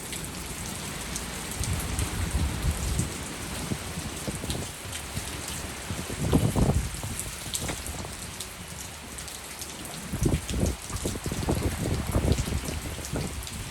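Heavy rain pouring down steadily in a windstorm, with strong gusts of wind buffeting the microphone in low rumbling surges a couple of seconds in, around the middle, and again near the end.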